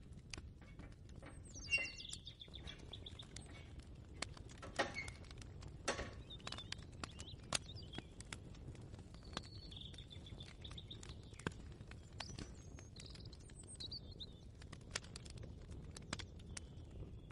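Ambient kitchen soundscape: scattered light clicks and knocks of kitchen work, with a bird chirping a few times over a low steady rumble.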